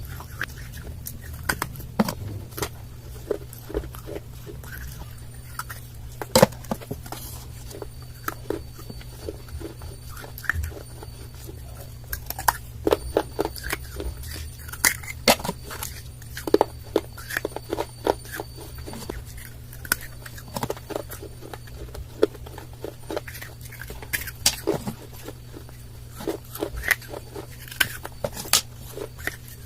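Dry baked clay being bitten and chewed close to the microphone: irregular sharp crunches and crackles, some louder snaps, over a steady low hum.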